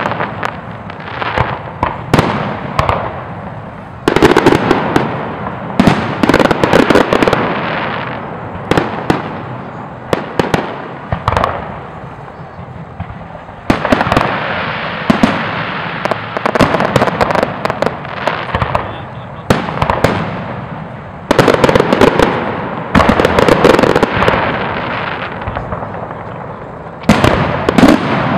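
Fireworks display with aerial shells bursting in rapid volleys: many sharp bangs over a continuous crackle. Loud barrages start suddenly several times, about 4, 14, 21 and 27 seconds in, and fade between them.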